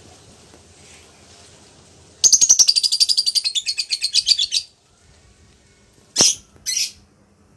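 Lovebird chattering in a rapid high-pitched trill of many quick notes lasting about two and a half seconds, then two short shrill calls near the end.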